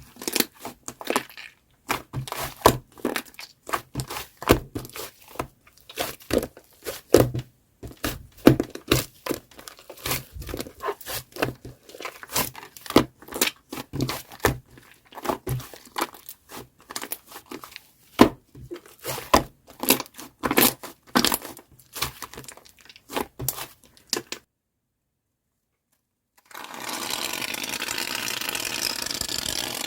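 Shaving-foam slime being squished and pressed by hand, giving a dense, irregular run of crackling, popping clicks. The crackling stops about 24 seconds in, and after a short silence a steady hiss starts near the end.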